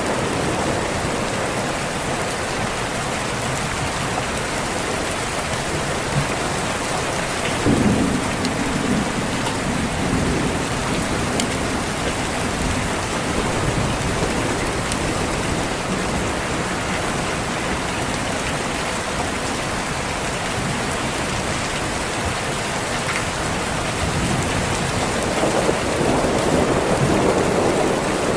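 Steady heavy rain with thunder: a low rumble breaks in suddenly about a quarter of the way through, and another rolls in near the end.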